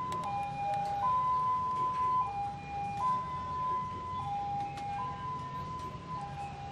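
Two-tone hi-lo siren, the kind on an emergency vehicle: a steady tone switching back and forth between a higher and a lower pitch about once a second, over a low steady rumble.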